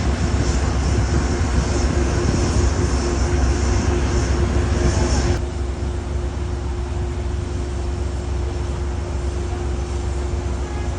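Steady low rumble of a vehicle engine with a constant hum, under a hiss that cuts off suddenly about five seconds in.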